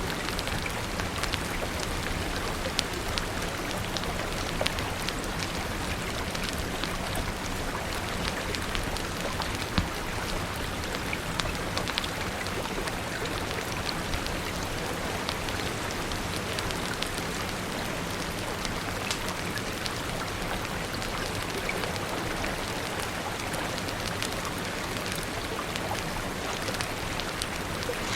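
Steady rain falling, with scattered sharp pops and crackles of a wood fire.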